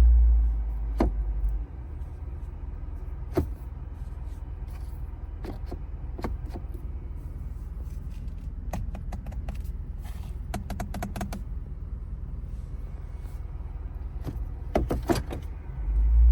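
Lexus IS 500 F Sport's 5.0-litre V8 running with a steady deep rumble. The rumble swells loudly for a moment at the start and again near the end. Scattered sharp clicks, with a quick run of clicks about ten seconds in, sound over it.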